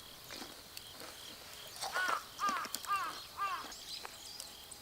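A crow cawing four times in quick succession, each caw a short arched call, about two seconds in.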